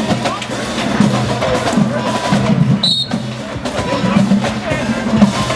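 Marching band playing, with drums and sharp percussion strikes over held low brass notes. A brief high tone sounds about three seconds in.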